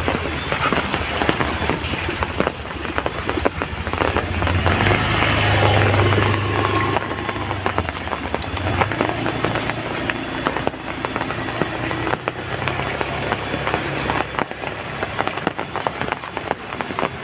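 Heavy rain falling, a dense, steady patter of drops hitting a surface. A low rumble swells about four seconds in and fades again a few seconds later.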